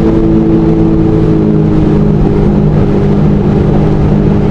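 Jet ski engine running steadily at speed, a loud constant hum that shifts slightly in pitch about one and a half to two seconds in.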